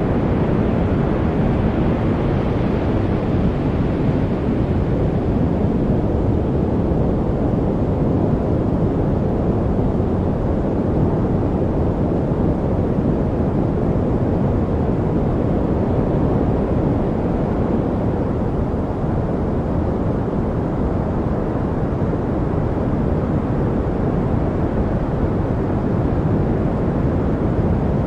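Steady white-noise track: an even, unbroken rush with no rhythm or pitch, weighted to the deep end so that it sounds more like a low rumble than a hiss.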